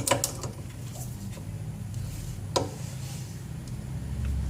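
A few sharp metallic clicks, one at the start and another about two and a half seconds in, from a torque wrench tightening the bolts of a new suspension ball joint, over a low steady hum.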